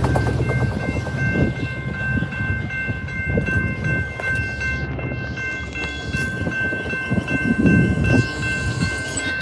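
A train rolling through a level crossing, its wheels clattering over the rails and fading as it goes, while the crossing's bell rings a fast repeating tone that stops just at the end.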